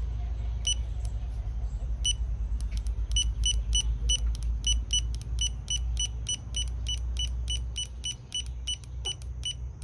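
Digital torque wrench beeping as a flywheel bolt is tightened to its set torque of 98 N·m. Two single beeps come first, then a steady run of short, high beeps at about four a second, the signal that the target torque has been reached.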